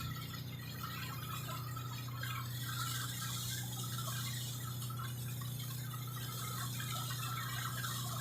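Ferry engine drone, a steady low hum, under the rushing hiss of water along the hull.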